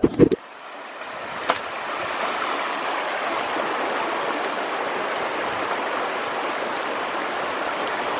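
Mountain brook rushing over rocks: a steady hiss of running water that swells over the first couple of seconds and then holds steady. A few short low knocks come at the very start.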